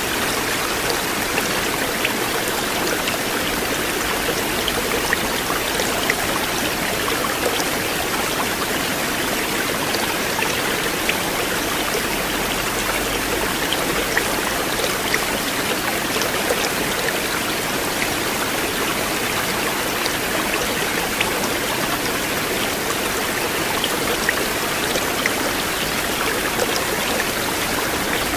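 River water flowing steadily: a continuous rushing of water over rocks, with small splashes dotted through it.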